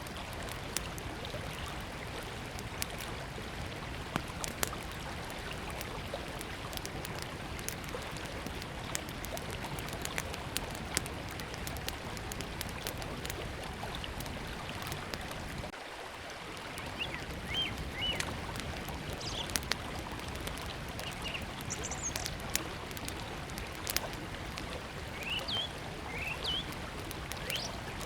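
A small wood fire crackling with scattered sharp pops over the steady rush of a river. From about halfway through, birds add short high chirps.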